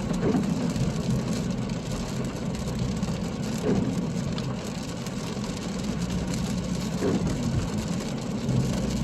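Steady engine and tyre rumble inside a car driving on a wet road, with a faint hiss of water under the tyres.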